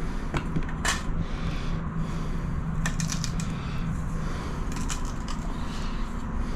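Several light clicks and taps with brief scraping, from tiling work with a tile, adhesive and aluminium trim, over a steady low hum.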